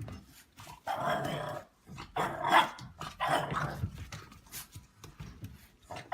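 A dog vocalizing in a run of short sounds, about one every second.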